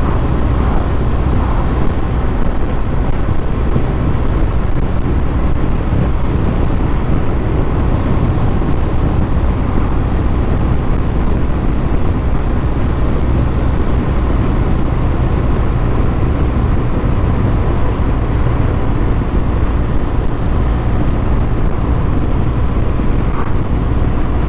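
BMW R1200 GS motorcycle cruising at a steady speed: its boxer-twin engine running under a constant wind rush, with no changes in pace.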